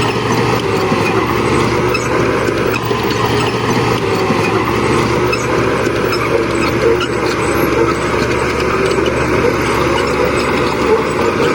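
Heavy diesel earthmoving machinery running steadily, a deep engine drone with light metallic ticking over it.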